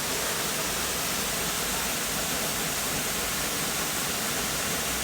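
Waterfall pouring steadily, an even rushing noise.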